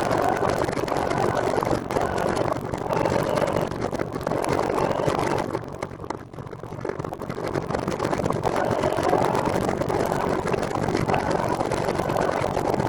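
Steady rushing of wind and road noise on the microphone while riding a recumbent trike, easing briefly about six seconds in.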